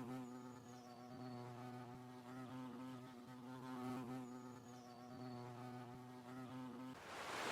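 A faint, steady, insect-like buzzing drone with a slight waver, crossed twice by a short high chirp that slides down. Near the end the drone stops and a swelling rush of noise rises in its place.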